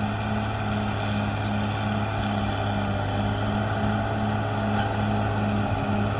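CAT D6R XL bulldozer's diesel engine running steadily under work, a constant low hum with a regular throbbing pulse about two or three times a second.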